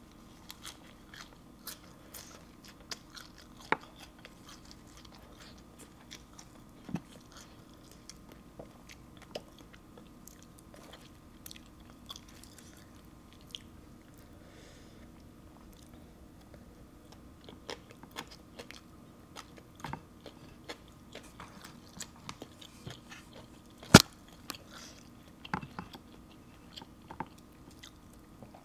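Close-miked eating by hand of crisp raw lettuce and green papaya salad: chewing with scattered soft crunches and mouth clicks, and one sharp, much louder crunch near the end.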